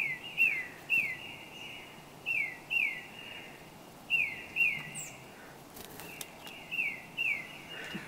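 A small songbird calling: clear whistled notes that slide down in pitch, mostly in pairs, repeated several times.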